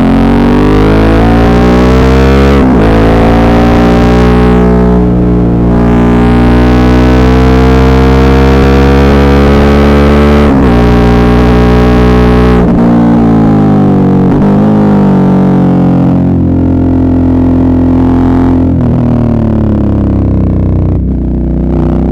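Suzuki V-Strom 650's V-twin engine pulling under load. Its note climbs steadily, then breaks or drops several times as the throttle is eased and gears change. The recording is very loud and somewhat distorted.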